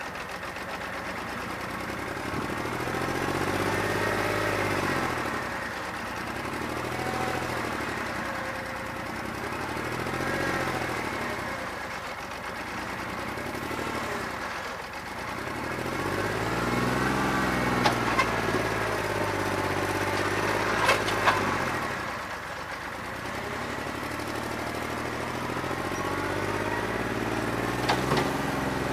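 New Holland 1320 tractor's diesel engine running, its speed rising and dropping back several times, with a few sharp clanks in the second half. The engine has a bad injector, running on about two and a half cylinders.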